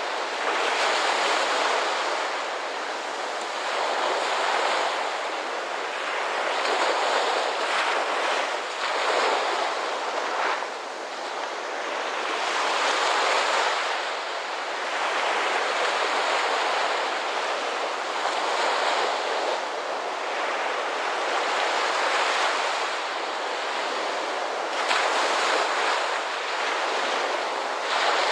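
Ocean surf washing in, a continuous rushing that swells and eases every few seconds as waves break.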